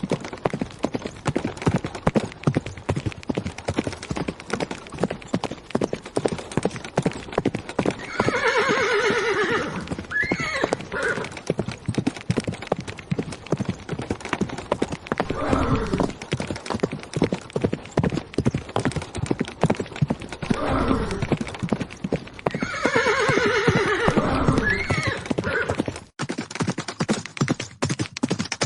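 Horses galloping, hooves striking the ground in a rapid, continuous drumming, with horses whinnying several times along the way. The hoofbeats break off briefly near the end.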